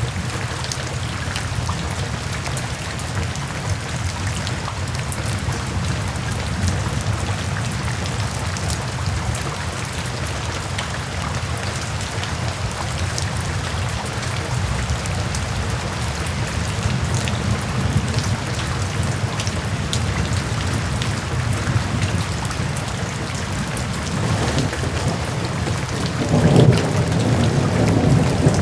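Steady downpour of rain, an even hiss of many drops, under a continuous low rumble of thunder that swells louder near the end.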